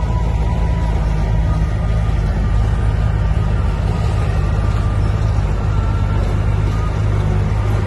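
Heavy diesel earthmoving machinery running steadily, a loud, deep engine drone.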